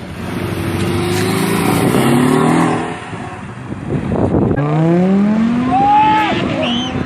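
High-performance vehicle engine accelerating hard, its pitch rising steadily. It eases off about three seconds in, then climbs again in a second rising pull.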